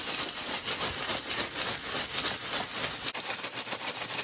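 Ice cubes rattling and shuffling in a plastic bag shaken hard back and forth in a quick, steady rhythm, with a bag of milk and cream inside being chilled toward ice cream.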